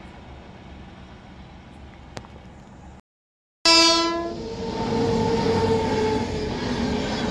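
A train rumbles faintly in the distance; after a brief dropout about three seconds in, a short, loud horn blast sounds, followed by the loud rush and rumble of LHB passenger coaches passing close by at speed, with a held tone under the wheel noise.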